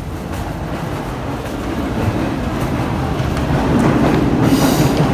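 A train running past a station platform, its rumble growing steadily louder, with a hiss coming in near the end.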